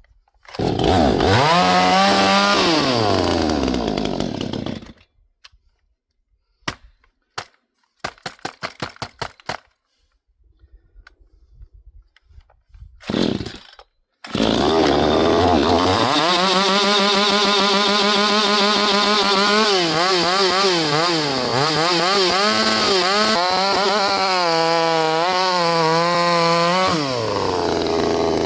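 Vevor 6220 two-stroke chainsaw running, its pitch sinking steadily until the engine dies about five seconds in, the stall the owner describes as acting like it isn't getting gas. It is then pull-started with a string of short cranking strokes, sputters once, catches about fourteen seconds in and is revved up and down repeatedly before dropping back toward idle near the end.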